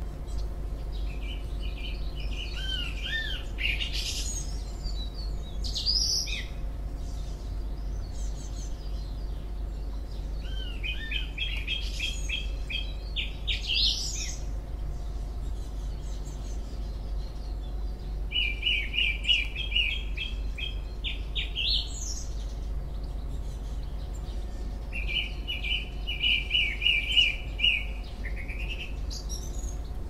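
A songbird singing a short phrase four times, about every seven or eight seconds: each phrase is a fast run of repeated notes ending in a higher flourish.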